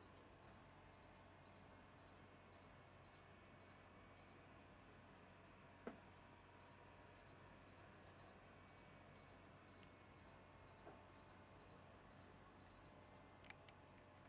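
Near silence with faint, short high-pitched electronic beeps repeating about twice a second. They pause for about two seconds midway, where a single click sounds, then resume.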